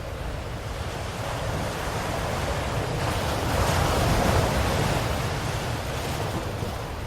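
Ocean waves: a single wave swells to a rushing peak about four seconds in and then falls away, over a low steady rumble of surf.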